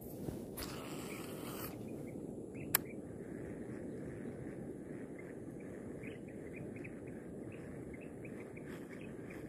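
Small birds chirping in quick, short notes over a steady hum of outdoor background noise, with a brief hiss near the start and a single sharp click about three seconds in.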